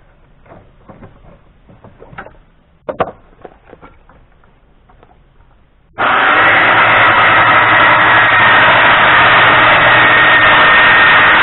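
A few light knocks from handling, then about six seconds in a power saw starts up loud and runs steadily at full speed with a high whine.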